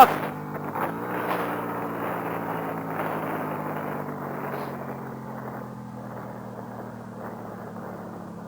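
Sport motorcycle engine running at a steady pitch while riding, under wind and road noise that gradually quietens.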